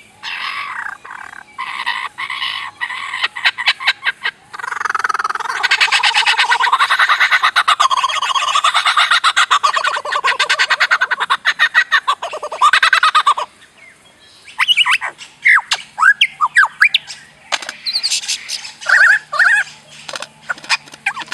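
A bird making laser-like sounds: a long run of rapid buzzing rattles, then, about two-thirds of the way in, short quick whistled notes that sweep up and down in pitch.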